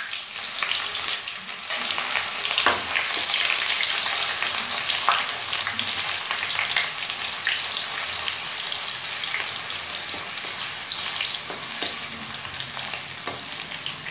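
Sliced onions, dried red chillies and bay leaves sizzling and crackling in hot oil in a kadai, stirred now and then with a ladle, with a few sharp clicks from the ladle against the pan.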